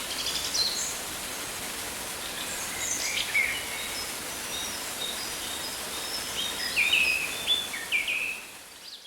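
Rainforest ambience: several birds chirping and calling in short phrases over a steady hiss, fading out near the end.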